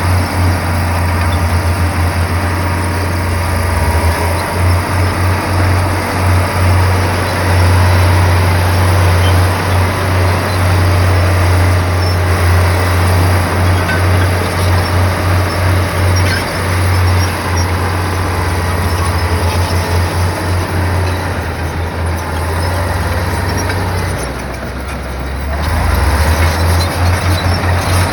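Komatsu bulldozer's diesel engine running steadily with a deep pulsing drone, easing off briefly near the end before picking up again.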